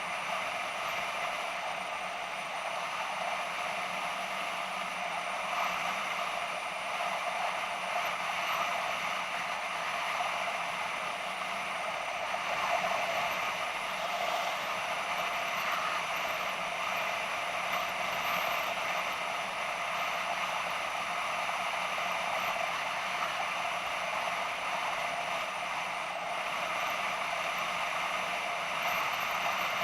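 BMW F650GS motorcycle being ridden, heard through a bike-mounted action camera: a steady rush of wind and engine noise with no change in pace.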